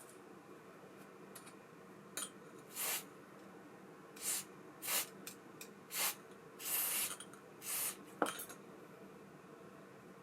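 A series of short hissing bursts, about seven over six seconds, some brief and some longer, followed by a sharp click with a short ring.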